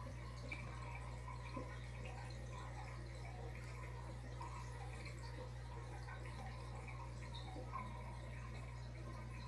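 Aquarium water trickling and dripping with small scattered plinks, over the steady low hum of the tank's pump or filter.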